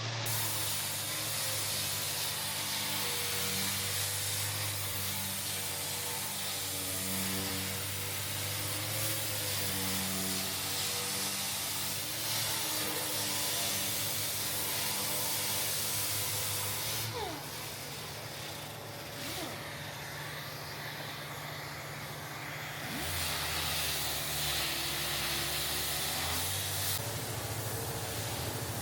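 Air-powered sander running steadily on the bare steel fender, knocking the metal down with 80-grit paper. There is a constant hiss with a wavering motor tone, and the sound changes character a few times as the tool's load shifts.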